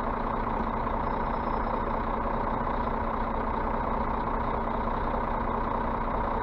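Scania bus diesel engine running steadily, with a constant low hum and no change in speed.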